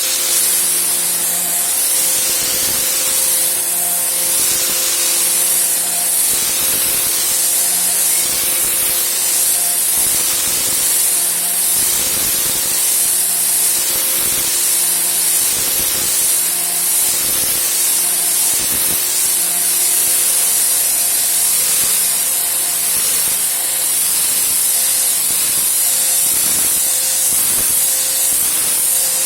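Stihl RE 98 electric pressure washer running, its induction motor and pump humming steadily under the loud hiss of the water jet spraying.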